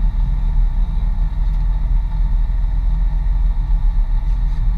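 Mitsubishi Pajero off-road vehicle driving, a loud steady low rumble of engine and running gear.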